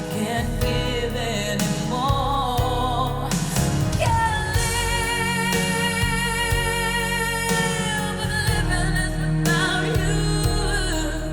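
A song with a singing voice over a strong bass line, played back through Elfton Vegas II four-way loudspeakers. About midway a long note is held with vibrato for about three seconds.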